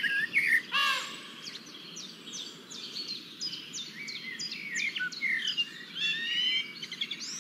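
Several birds calling at once: a loud, ringing sweep of notes in the first second, then a busy run of short chirps and whistled notes, some rising and some falling, over a low steady background hiss.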